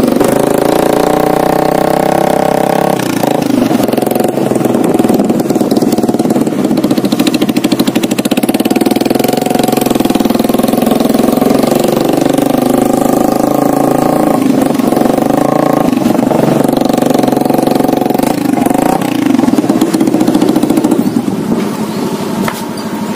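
Motorcycle engine running steadily, its pitch rising and falling a few times as the throttle changes, around three seconds in, in the middle and near the end.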